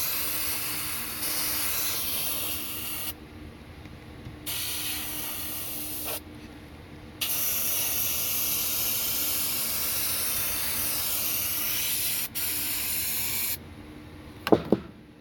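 Aerosol spray can sprayed in three long, steady bursts, each starting and stopping sharply, over a faint low hum. A single loud knock near the end.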